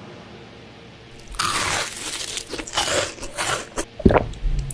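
A run of irregular crunching noises that starts about a second in, with a heavier low thump near the end.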